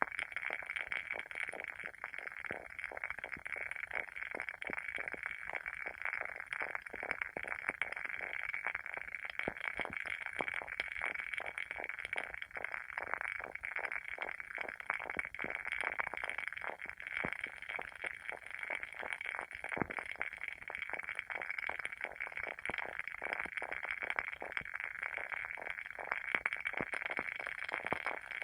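Wooden candle wick crackling as it burns: a continuous, dense patter of small pops and snaps like a tiny campfire.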